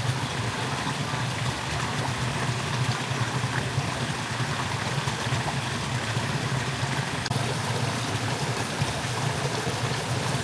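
Steady rushing of water in heavy rain: an even hiss with a low rumble underneath.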